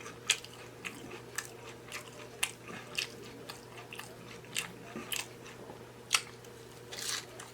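Close-miked chewing of a loaded taco in a nacho cheese taco shell, with irregular sharp crunches and mouth clicks.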